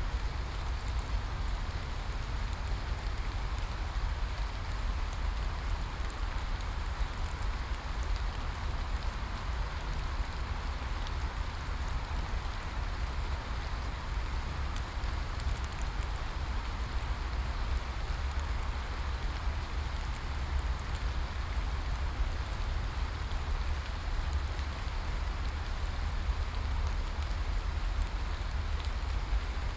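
Steady rain falling and pattering on a surface, with a constant low rumble underneath and scattered fine drop ticks.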